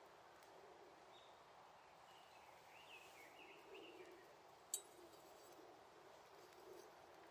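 Faint small wood fire with one sharp crackle about two-thirds of the way through, over a steady low hiss. A bird chirps a few times around the middle.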